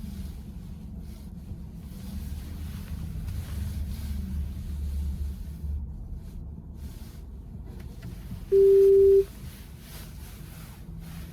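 Low road and tyre rumble inside a VW ID.4 electric car's cabin while driving, with a single loud, steady electronic beep lasting under a second about eight and a half seconds in.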